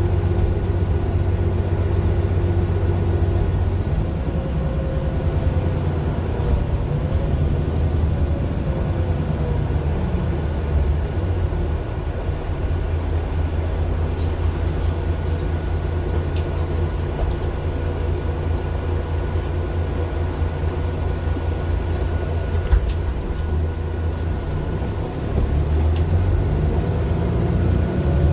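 Mercedes-Benz Citaro LE city bus with its Daimler OM 457 hLA six-cylinder diesel running: a steady low engine drone whose pitch shifts a few times, with a faint steady whine above it.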